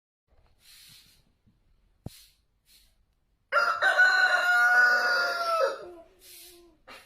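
A rooster crowing once, a long call of a bit over two seconds held at a steady pitch and dropping off at the end.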